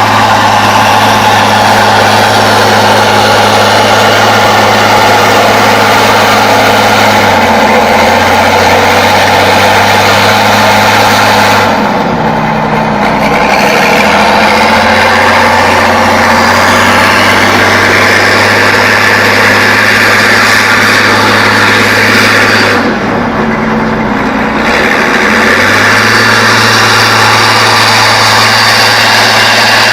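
Off-road vehicle's engine running hard at steady revs, with a step down in pitch about a quarter of the way in and two brief drops in revs, near the middle and later, each followed by a return to full revs.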